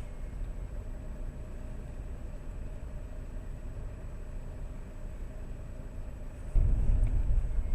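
Road and engine rumble heard inside a moving Lada Priora through its dashcam's microphone. The low rumble is steady, then suddenly grows louder about six and a half seconds in.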